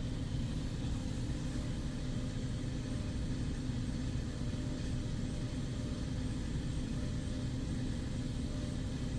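Steady low mechanical hum with a few fixed droning tones, even throughout, with no knocks or changes.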